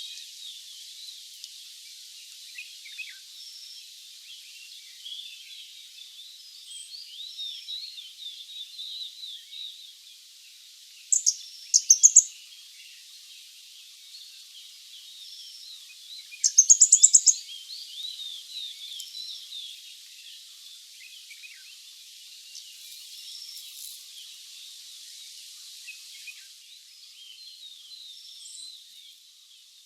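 Nilgiri flowerpecker calling: rapid bursts of sharp, very high ticking notes, a short pair about a third of the way in and a longer burst a little past halfway. Behind them runs a steady background chorus of faint high chirps from other birds and insects.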